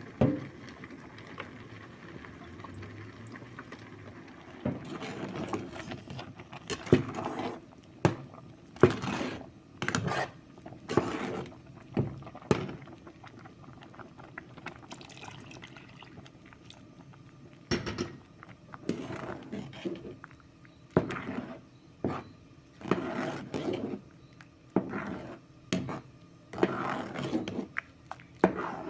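Kitchen preparation sounds: liquid being poured and splashing, with irregular knocks of pots and utensils.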